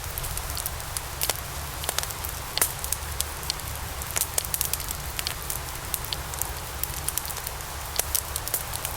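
Wood logs burning in a fireplace, with frequent irregular sharp crackles and pops over a steady low rumble of the flames.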